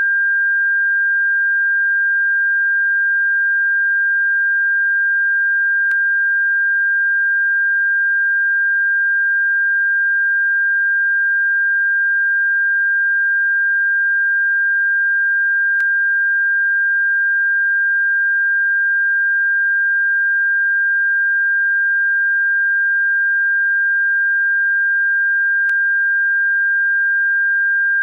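A single steady, high-pitched electronic pure tone, held without any change in pitch or loudness, played as a bird-repellent sound. Faint ticks break in about every ten seconds.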